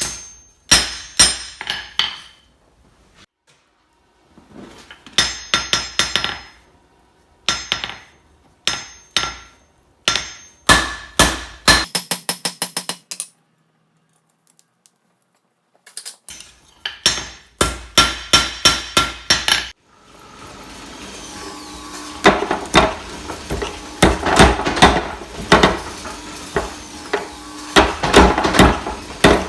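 Hammer blows on hot steel against an anvil, in short bursts of several strikes with a ringing note after each. Around the middle comes a quick run of light taps. From about two-thirds of the way in, a steady hiss runs under the blows.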